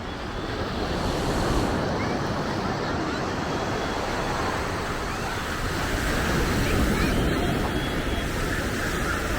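Ocean surf breaking on a sandy beach: a steady rush of waves that surges louder twice.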